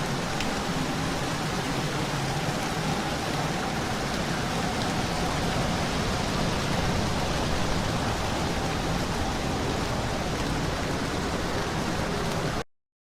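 Heavy storm rain, a dense steady hiss and rumble that cuts off abruptly near the end.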